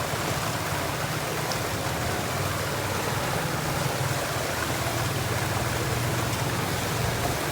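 A water pump pumping out floodwater: a steady rush of gushing water over a low, even motor hum, unchanging throughout.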